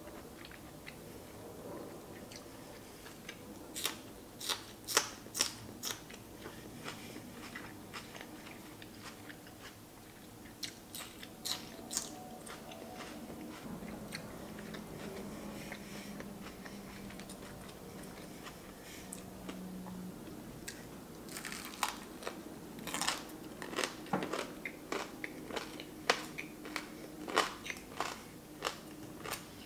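Close-miked eating: a person chewing and biting mouthfuls of food, with clusters of crisp, crackly crunches, the densest through the last third.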